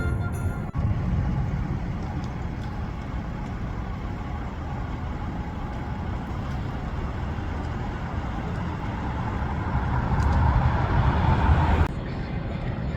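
City street traffic: a steady rumble of passing road vehicles. It swells as a vehicle passes close about ten seconds in, then cuts off suddenly near the end.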